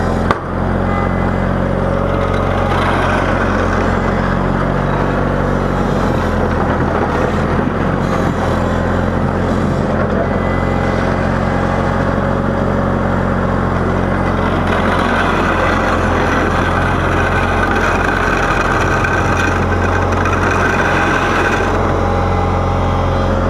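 Garden tractor engine of a 318 running steadily while plowing snow, with its sound growing fuller and noisier for several seconds in the later part.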